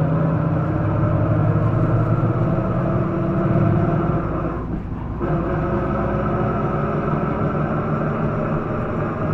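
Isuzu Erga city bus's diesel engine and drivetrain heard from inside the cabin, pulling steadily; the drive drops out briefly about five seconds in, as at a gear change, and then carries on with a higher-pitched drone. This bus is known to its recorder for an abnormal noise from the drivetrain that it did not make when new.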